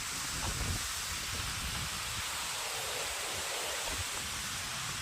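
Steady outdoor noise: an even hiss with a low, uneven rumble beneath it.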